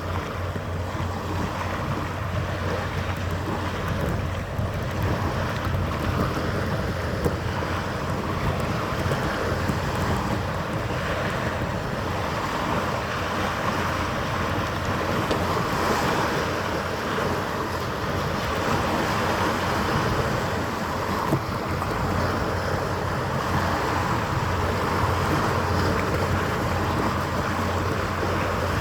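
Steady wash of water and wind with a low, steady machinery hum underneath, as of a ship's engines running.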